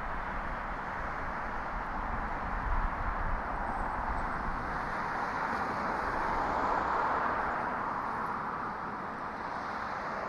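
Street noise heard from a moving bicycle: a steady rush of traffic and road noise, swelling a little in the middle.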